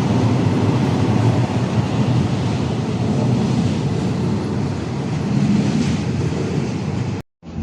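Excursion train running, a steady rumble of the moving train, cut off abruptly near the end.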